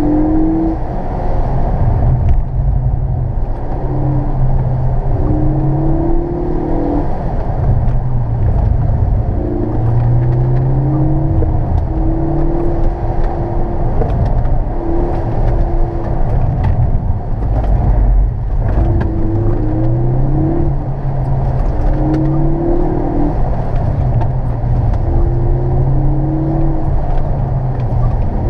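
2013 Ford Focus ST's turbocharged 2.0-litre four-cylinder engine heard from inside the cabin, driven hard: its note keeps coming and going as it is accelerated and eased off, over a steady rush of road noise.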